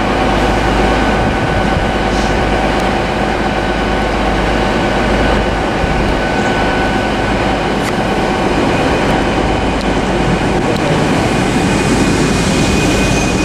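Train running at a station platform: a steady rumble with high, steady whining tones over it, the whine changing pitch near the end.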